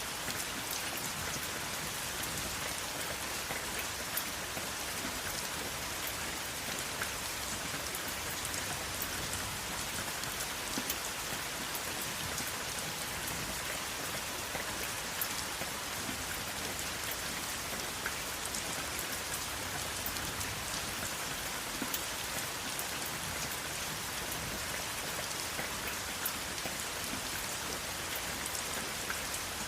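Steady rain falling on a surface: an even hiss with scattered sharp drop ticks, no thunder.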